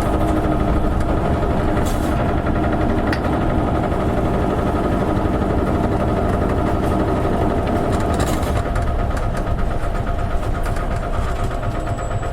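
Engine and drivetrain of an Isuzu Erga KL-LV280N1 diesel city bus running steadily, with a low rumble. Two brief hisses come about two seconds in and about eight seconds in. The rumble eases off over the last few seconds.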